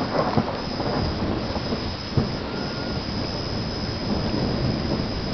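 Thunderstorm: steady rain with a low rolling rumble of thunder, and one light knock about two seconds in.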